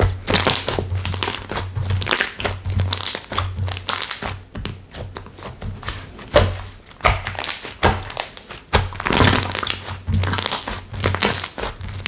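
Slime being squeezed, poked and folded by hand, giving a dense run of sticky clicks and crackling pops.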